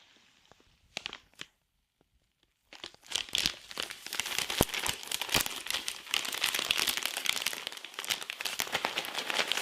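Dense crinkling and crackling from a military ration pack's flameless heater setup just after water is added, starting about three seconds in after a near-silent start.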